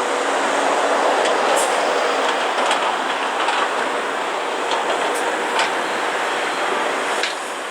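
Heavy construction machinery running steadily, with scattered sharp metallic clanks over it.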